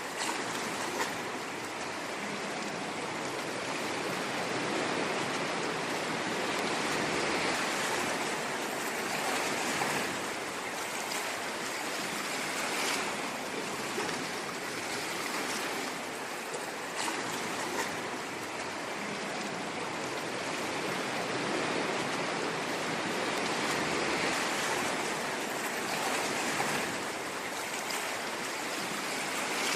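Ocean surf washing in, a steady rush of wave noise that swells and eases gently every several seconds.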